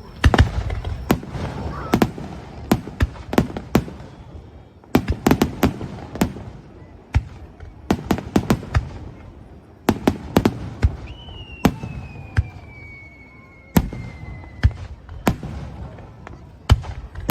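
Fireworks display: many sharp bangs and crackles going off in quick clusters, with one long falling whistle starting about eleven seconds in and lasting about four seconds.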